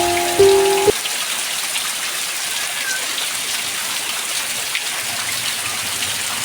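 Heavy rain falling steadily, a dense even hiss of drops. Music notes carry over for about the first second, then cut off abruptly, leaving only the rain.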